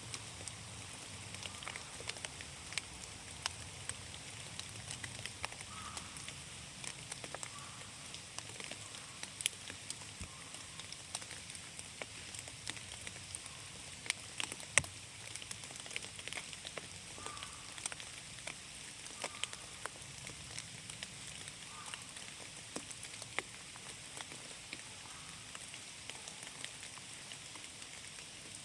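Rain falling in a forest: a steady patter with many irregular sharper drips of drops landing, a couple of them noticeably louder about a third and halfway through.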